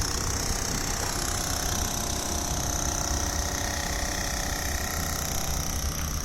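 Steady vehicle engine and traffic noise, with a constant high-pitched whine above it.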